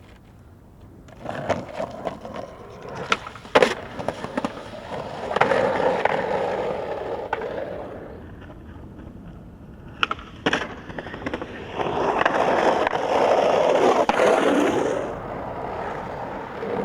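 Skateboard rolling, its wheels making a steady rumble in two long runs, with sharp clacks of the board about three seconds in and again around ten seconds.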